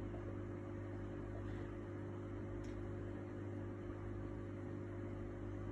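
Steady electrical hum over a faint hiss: room tone.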